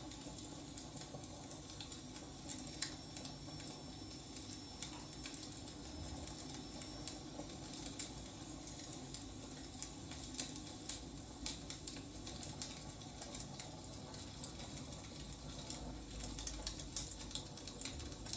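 Wood fire burning, with irregular sharp crackles and pops over a steady low rumble and hiss. A faint high whistle is heard for the first several seconds.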